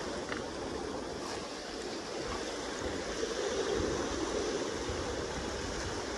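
Steady rushing of the Kenai River's flowing water.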